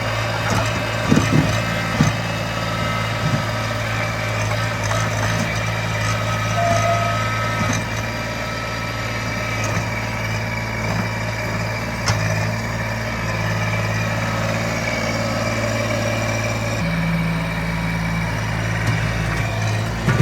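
Small tractor's engine running steadily, with a few short knocks in the first couple of seconds. The engine note shifts slightly near the end.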